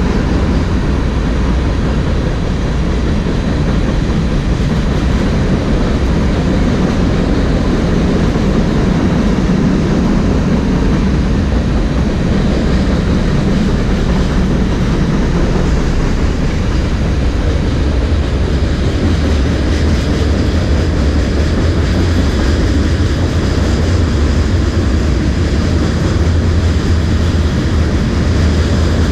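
A train rolling past, a loud steady rumble of wheels on rails. The low rumble grows heavier about two-thirds of the way through.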